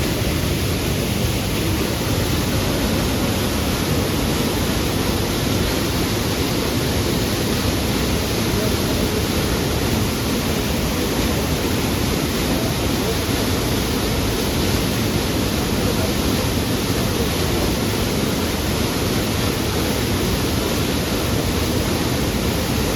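The Karura Forest waterfall pouring: a loud, steady rush of falling water.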